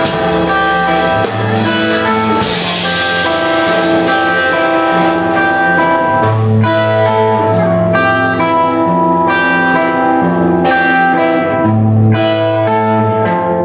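Live band playing an instrumental passage led by guitar. Cymbals stop about two seconds in, and held guitar chords ring on over low bass notes.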